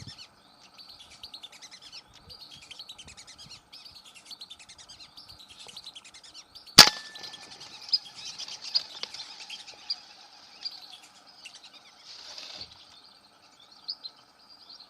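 Birds chirping over and over, and about seven seconds in a single sharp gunshot, the loudest sound. The bird calls keep going after the shot.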